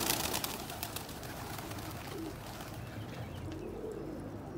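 Domestic pigeons cooing, with a low, wavering coo near the end. A brief flurry of rapid rustling at the start.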